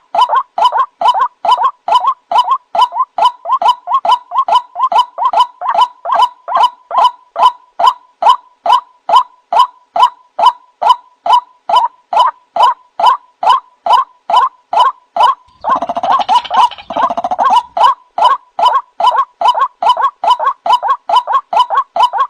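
White-breasted waterhen (ruak-ruak) lure call: a loud, croaking "kru-wak" note repeated evenly about three times a second. About fifteen seconds in, a harsher, denser burst of calling lasts about two seconds before the regular rhythm resumes.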